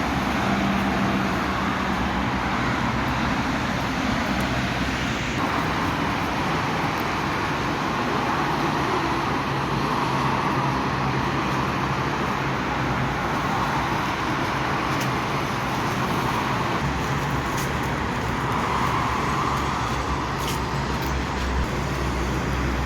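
Steady road traffic noise from cars and other vehicles moving along a busy highway, with a low engine hum underneath.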